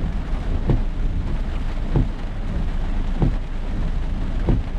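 Rain on a car over a steady low rumble, with the windshield wipers sweeping in a regular rhythm about every 1.3 seconds.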